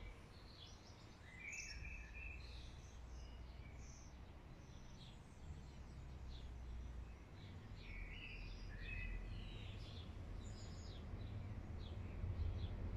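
Birds chirping and singing, many short high calls scattered throughout, over a low rumble that grows louder near the end.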